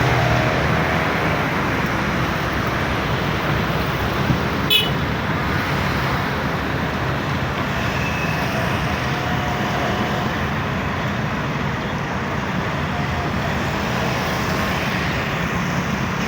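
Steady road traffic noise from passing buses and other vehicles: a continuous rush of engines and tyres, with a brief sharp click a little under five seconds in.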